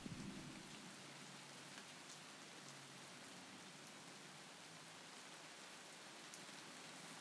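Faint, steady rain ambience: an even hiss of rainfall with a few light drop ticks.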